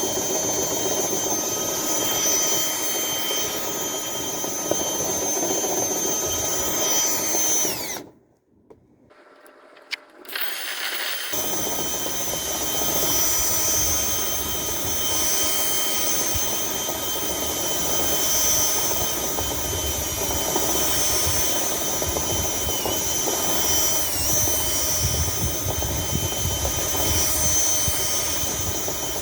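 Power drill spinning a rotary cleaning brush through a dryer vent duct, running with a steady high whine. About eight seconds in it winds down and goes nearly quiet for a few seconds, then runs again.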